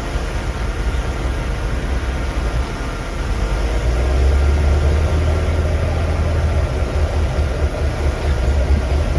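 Heavy diesel engine of earthmoving machinery running under load with a deep low rumble. It grows a little louder about four seconds in.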